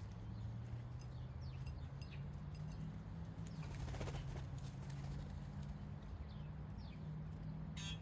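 Small backyard birds calling, with scattered short, falling chirps, a stretch of rapid chatter about halfway through and a brief buzzy rattle near the end, over a steady low hum.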